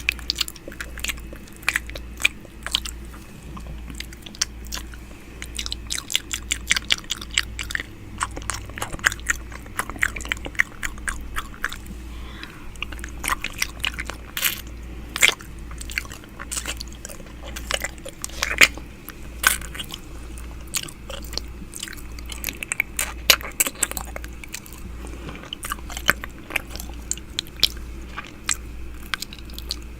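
ASMR 'ear eating' mouth sounds close to the microphone: wet mouth clicks, lip smacks and tongue sounds in a dense, irregular crackle of sharp clicks.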